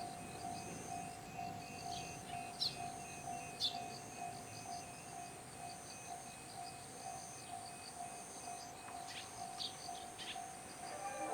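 Railway level-crossing alarm ringing its electronic warning tone in a steady pulse, about three strokes a second, over insects chirping. Two sharp clicks come a few seconds in, and a new sound with several tones begins right at the end.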